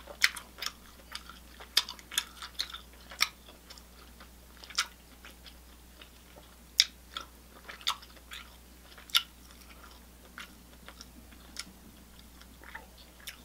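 Close-miked chewing and lip-smacking of a mouthful of seafood: irregular wet clicks and smacks, denser in the first half and sparser later.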